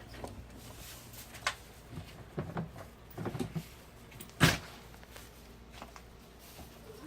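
Scattered light knocks and clicks of things being handled, with one sharper knock about four and a half seconds in.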